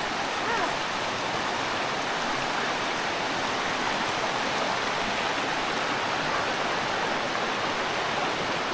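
Creek water flowing steadily, a continuous even rushing.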